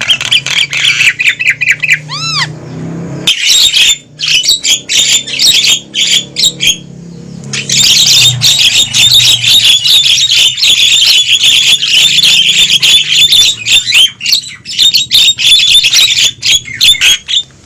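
Javan mynas (jalak kebo) calling noisily: loud, dense harsh chattering and squawks, with a short lull about three seconds in and another near seven seconds before the chatter runs on nonstop. It is the rowdy call used as a lure to draw wild mynas in.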